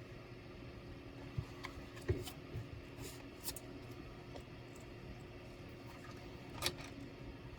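A few light clicks and taps of laptop parts being handled, over a steady low hum. The sharpest tap comes near the end.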